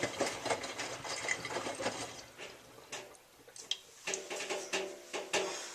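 Miele W3744 washing machine drum turning laundry through water, with irregular sloshing and splashing and small knocks. It is quieter for a second or so in the middle.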